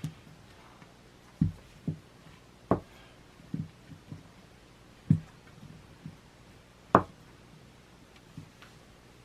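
Play-Doh being handled on a tabletop: about eight irregular, separate knocks and taps spread over several seconds.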